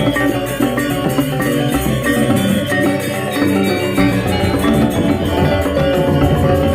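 Balinese gamelan playing: rapid interlocking metallophone notes over drums and low gong tones.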